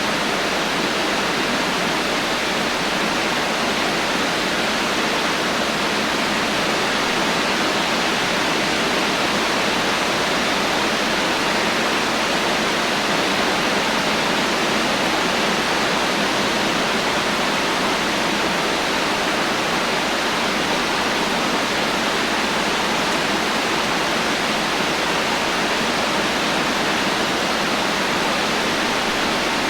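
Heavy rain falling steadily, a dense even hiss with no thunder and no separate drops standing out.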